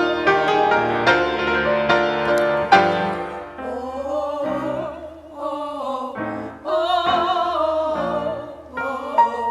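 Piano playing struck chords, then a classical-style singing voice coming in about three and a half seconds in, holding long notes with vibrato over the piano.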